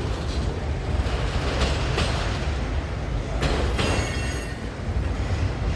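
A long train's cars rolling past, a steady low rumble of wheels on rail with a few clanks, and a brief high wheel screech about three and a half seconds in.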